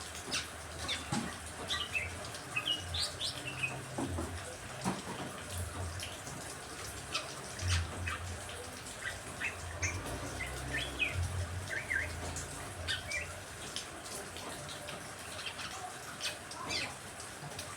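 Caged songbirds chirping in many short, scattered calls over a steady hiss of rain.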